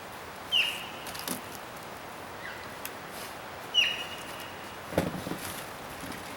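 A bird gives two short, sharp high calls about three seconds apart, each dipping and then holding its pitch. Light clicks fall between the calls, and a dull knock comes about five seconds in.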